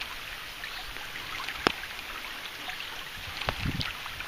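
Steady rain falling, a hiss with a light patter of drops. A single sharp click comes about one and a half seconds in, and a few dull thumps come near the end.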